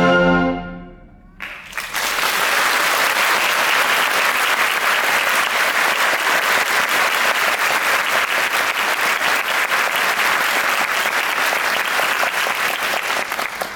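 A wind band's last chord dies away, then an audience applauds from about a second and a half in until it stops just before the end.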